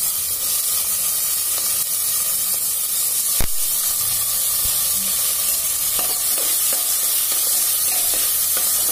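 Chopped bottle gourd sizzling steadily in hot mustard oil in an aluminium pot. A sharp knock comes a little over three seconds in, and a spatula scrapes as the pieces are stirred near the end.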